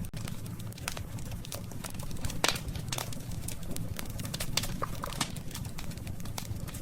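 Wood campfire crackling: irregular sharp pops and snaps from the burning wood, the loudest about two and a half seconds in, over a low steady rumble of the flames.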